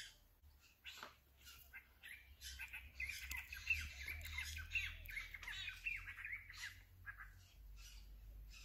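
Birds squawking and chattering in a rapid run of short high calls from about two seconds in until about seven seconds, with a few brief scattered rustles.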